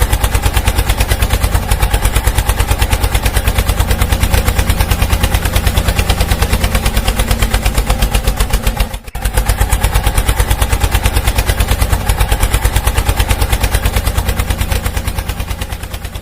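Small motorised machine running with a fast, even mechanical clatter, about a dozen knocks a second over a steady hum, breaking off for a moment about nine seconds in.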